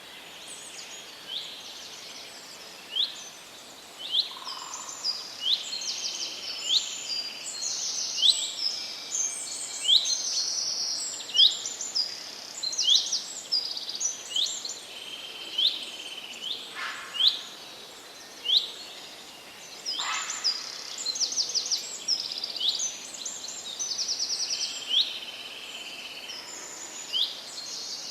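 Forest birdsong: several birds singing with quick, high chirps and short rapid trills, one after another, over a steady soft hiss.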